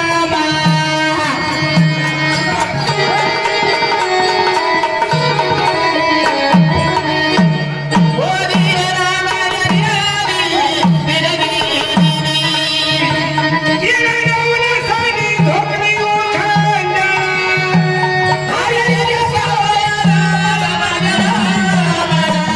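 Instrumental passage of Marathi devotional folk music: a hand drum plays repeated bass strokes whose pitch bends downward, under a sustained melody on an accompanying instrument.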